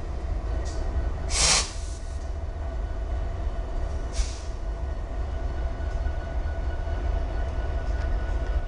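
Freight train running on the line, a steady low rumble with faint steady tones over it. Two short hisses come about a second and a half in and again about four seconds in.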